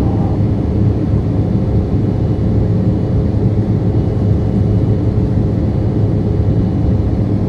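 Steady low roar of a jet airliner in flight, engine and airflow noise, with a faint steady hum.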